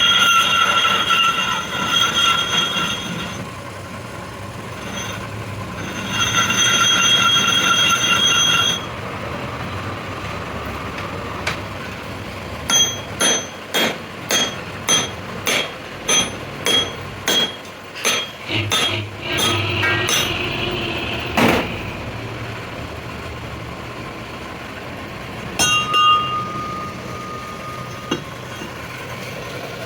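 Steel truck axle turning on a lathe with a hand-held cutting tool against it, squealing with a steady high ring in two long stretches. Then a run of about a dozen sharp ringing metal clinks, roughly two a second, followed by a few more strikes and a fainter squeal near the end.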